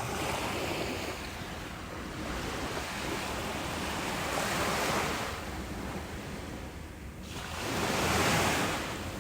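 Ocean surf breaking and washing up a beach, a steady rush of water that swells twice, about halfway through and, more loudly, near the end.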